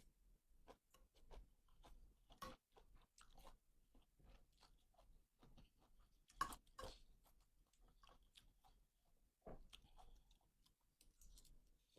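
A person chewing and biting food close to the microphone: many short, crisp clicks and smacks at an uneven pace, with a louder one about six and a half seconds in.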